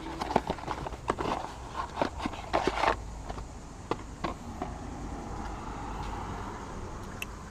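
Irregular light clicks and knocks of things being handled, closely spaced for about the first three seconds, then only a faint steady background hiss.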